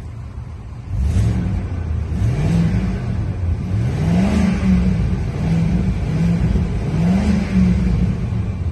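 Ford E-350 Super Duty engine running, getting louder about a second in and then revved up and let back down several times.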